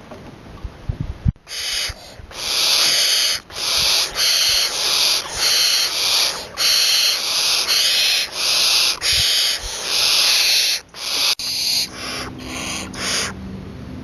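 Young barn owl giving a long run of short, harsh hissing screeches, a little more than one a second, beginning about a second and a half in after a few soft thumps.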